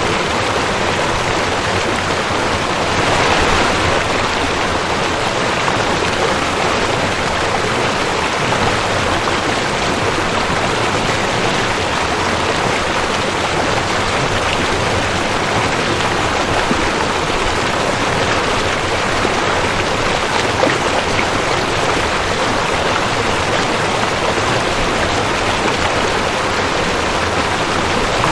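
Rushing creek: water running steadily over rocks, a continuous splashing rush with a slight swell about three seconds in.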